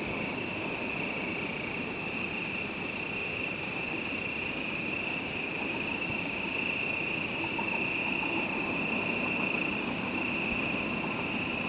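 A steady chorus of insects such as crickets, one continuous high buzzing tone with fainter high tones above it, over a low, even rumble of distant traffic.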